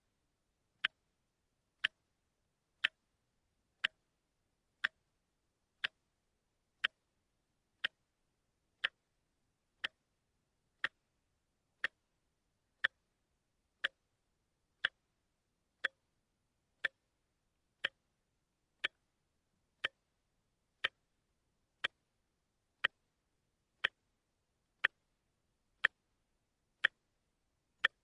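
A watch ticking steadily about once a second: single sharp, crisp ticks with silence between them.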